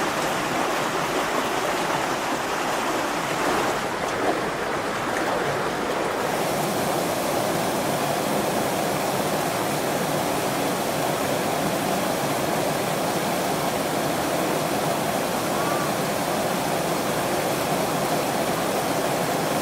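Steady rush of flowing river water, a continuous hiss that grows brighter about six seconds in.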